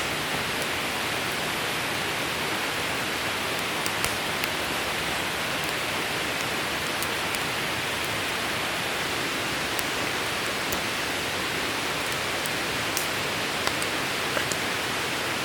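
Wood campfire burning on bare ground: a steady hiss with occasional sharp crackles and pops every few seconds.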